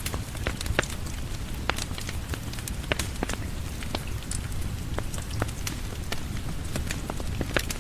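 Steady rain with a low rumble, mixed with a fireplace's crackle: many sharp, irregular pops and ticks.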